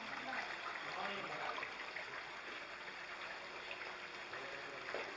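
Steady running water, like a small stream or waterfall, with faint indistinct voices in the first second or so.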